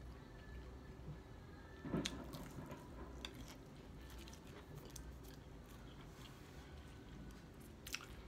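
A person chewing and biting food close to the microphone, with small mouth clicks throughout and a louder bite about two seconds in.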